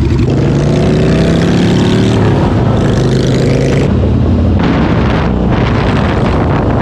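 Motorcycle engine accelerating while riding, its pitch rising for about two seconds, then dropping and running steadily at speed. Wind rushes over the microphone throughout.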